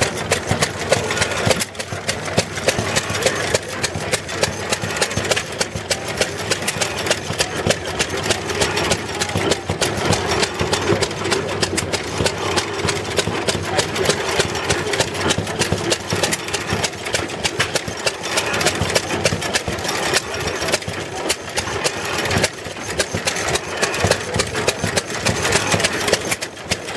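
Antique stationary gasoline engine running steadily, its exhaust firing in a rapid string of pops.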